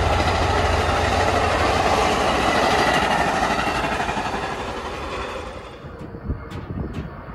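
A passing train: steady rushing wheel-on-rail noise over a low rumble, fading away about five seconds in as it moves off, with a few sharp clicks near the end.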